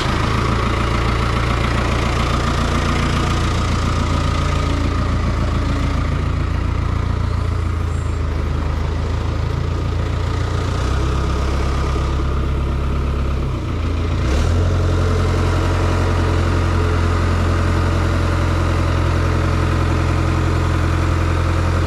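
Engine of a marina boat lift running steadily, its note shifting about 11 seconds in and again, to a steadier, stronger hum, about 14 seconds in.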